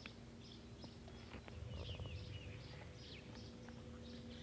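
Faint birds chirping in short repeated calls, some dropping in pitch, over a faint steady low hum, with a few light clicks.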